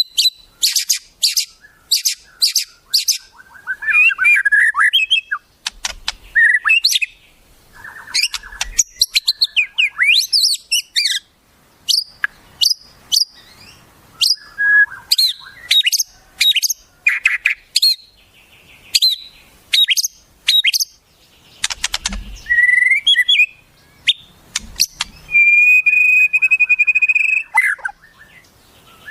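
Wild songbirds calling and singing: rapid runs of sharp high chirps and short whistles with brief pauses, and a longer trilling whistle near the end.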